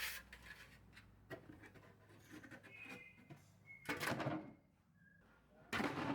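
Faint knocks and rustling of things being handled, with two louder rustles, one about four seconds in and one near the end, and a few brief, faint, high whistle-like tones in between.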